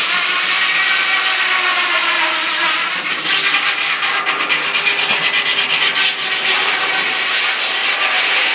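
Sawmill blade sawing wood: a steady whine for the first few seconds, then a rapid rasping chatter from about three seconds in that stops suddenly at the end.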